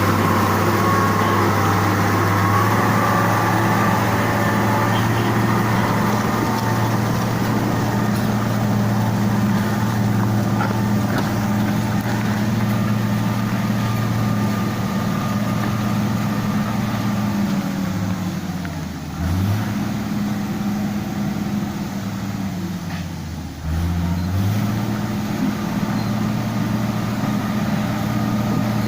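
Diesel engine of heavy road-repair machinery running steadily with a low hum. Twice in the second half it drops in pitch and level for about a second, as if under load or throttled down, then picks back up.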